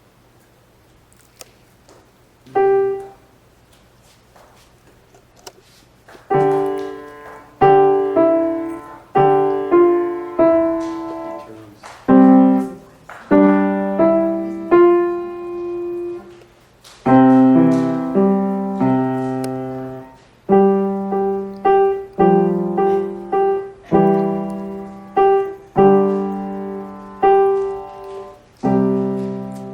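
Piano played slowly by a child: one note, a few seconds' pause, then a simple tune of separate notes and chords, about one a second, each left to ring and fade.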